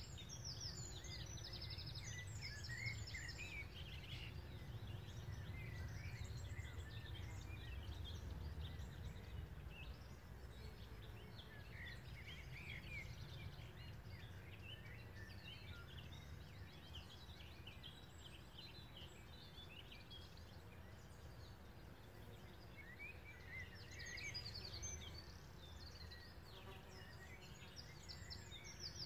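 Faint chorus of several songbirds singing, a steady stream of short chirps and trills, busiest at the start and again near the end, over a steady low rumble.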